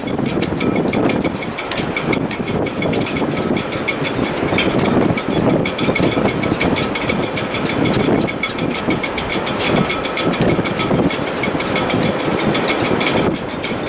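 Wind through a sailboat's shrouds in heavy weather: a gusting rush that swells and eases every second or two, with faint steady whistling tones from the rigging above it.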